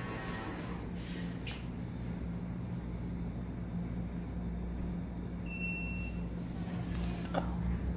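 Coffee vending machine humming steadily, with a sharp click about a second and a half in, a short high electronic beep a little past the middle, and another click near the end.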